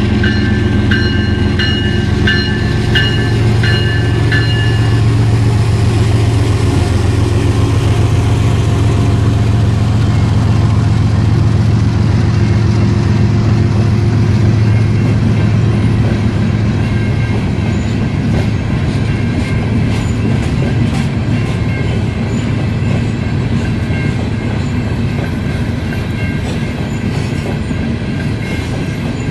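Long freight train of loaded hopper cars rolling past with a steady low rumble, its wheels clicking over rail joints more and more often from about halfway on. For the first five seconds a railroad crossing bell rings about twice a second, then stops.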